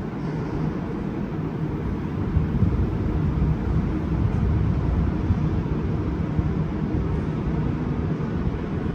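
A steady low rumble with a faint hum, like a large vehicle running, growing a little louder over the first few seconds.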